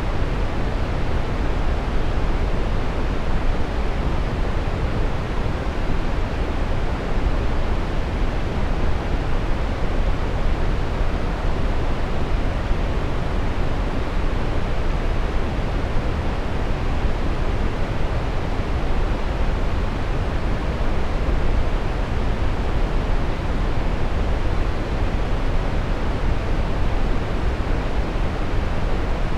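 Brown noise: a steady, even rushing hiss weighted toward the low end, with no change or events.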